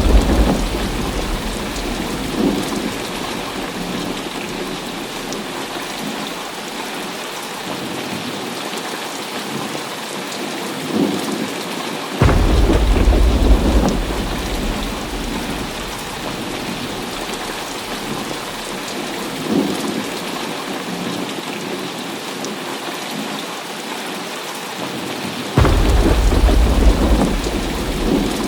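Heavy rain falling steadily, with rolling thunder. A rumble is fading at the start, and two sudden, loud, deep claps break in, one about twelve seconds in and one near the end, each rumbling for a couple of seconds. Fainter distant rumbles come in between.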